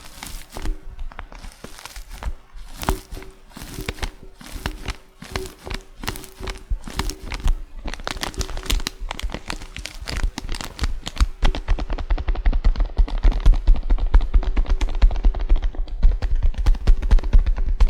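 Fingers tapping and crinkling tea packaging in a fast, irregular run of light taps and rustles. About twelve seconds in the taps come quicker, denser and duller, with more thud and less crispness.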